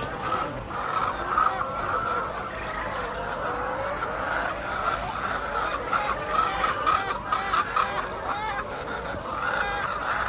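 Chickens clucking, many short calls overlapping without a break.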